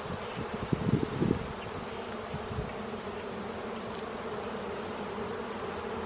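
Honeybees from an opened hive buzzing in a steady hum, with a few low bumps in the first second or so.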